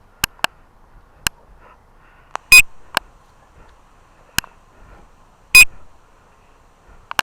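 Scattered sharp clicks and two loud, short beeps about three seconds apart.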